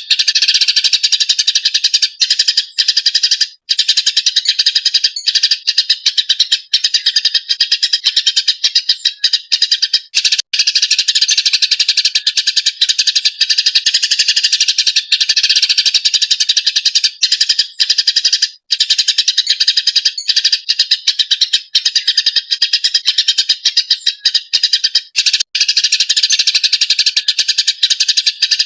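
Eurasian tree sparrow chirping fast and without letup, a dense stream of high chirps broken only by brief gaps.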